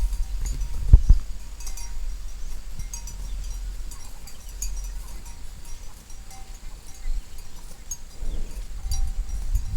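Cowbells on grazing cows clinking now and then over a steady low rumble, with a sharp thump about a second in.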